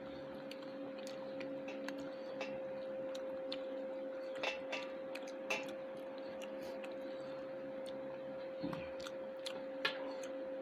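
Quiet eating sounds at a meal: scattered small clicks and smacks of chewing and of food being handled on a plate, a few a little louder, over a steady low hum.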